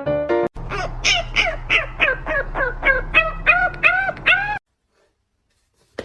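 An animal giving a quick run of about a dozen short calls, each rising and falling in pitch, about three a second, which cuts off suddenly with about a second and a half left. Piano music stops just before the calls begin.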